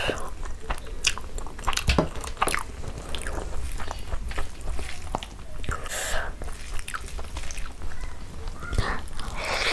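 Close-miked eating sounds: chewing a mouthful of rice and curry, with wet smacks and many sharp little clicks. A hand squishing rice and curry together on a plate joins in midway, and a large handful is pushed into the mouth near the end.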